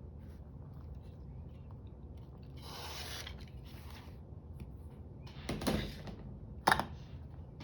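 Paper rustling and sliding as it is handled and folded on a table, then two sharp knocks or clatters near the end, the second the loudest, over a low steady hum.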